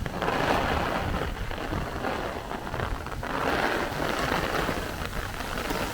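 Heavy downpour with gusting wind, a steady hiss of rain that swells and eases.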